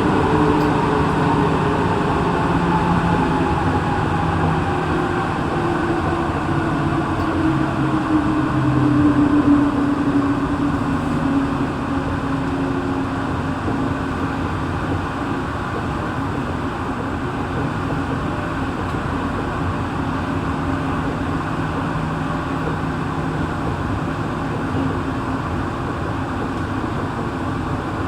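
Interior running noise of a Santiago Metro NS-16 train in motion, with a steady rumble and the traction motors' whine. The whine falls in pitch over about the first half, as the train slows.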